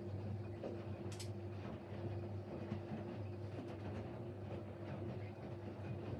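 Siemens Siwamat Plus 574 washing machine turning its drum during the first rinse: a steady motor hum with a steady higher tone over it and faint scattered clicks.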